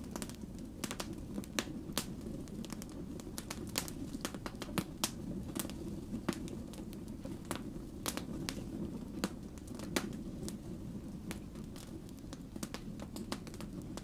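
Wood fire burning, with irregular sharp crackles and pops from the logs over a steady low rumble of flame.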